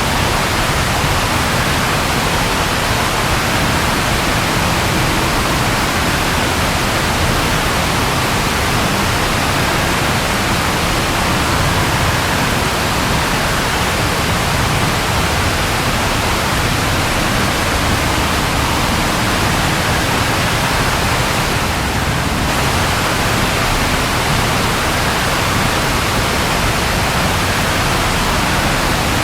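Steady rain falling, an even unbroken hiss with no thunder heard.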